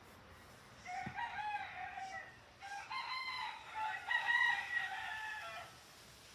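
A rooster crowing, in two stretches with a brief break between them, about five seconds in all.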